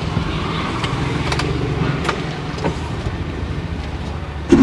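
Car engine idling steadily, heard from inside the cabin, with a few light clicks. A louder sound starts suddenly near the end.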